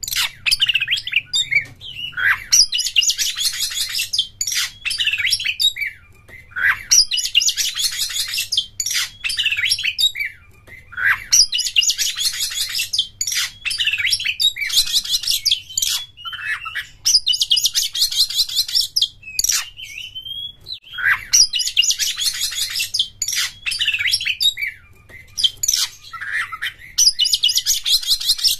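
Oriental magpie-robin (kacer) singing: repeated phrases of rapid, high-pitched chattering notes, each a second or two long, with brief pauses and short whistled notes between them.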